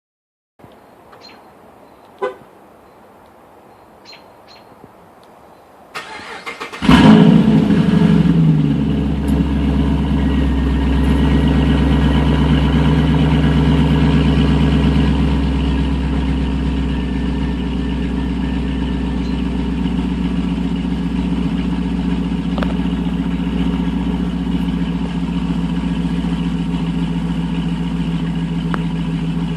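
A few faint clicks, then a 2009 Pontiac G8 GT's 6.0-litre V8 cranks for about a second and catches about seven seconds in. It flares loudly, then settles into a steady fast cold-start idle through a Solo Mach shorty cat-back exhaust, easing down slightly about halfway through.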